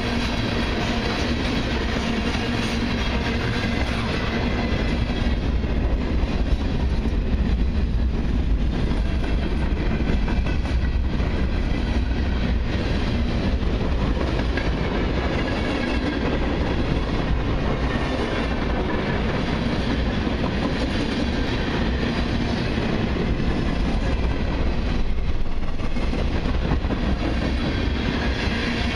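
Freight cars of a long mixed and autorack train rolling steadily past, with steel wheels running over the rails.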